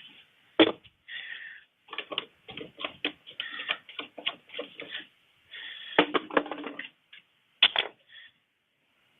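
Irregular clicks, knocks and rattles of plastic quart bottles of motor oil being handled and emptied into the engine's fill funnel, with a few louder knocks among them.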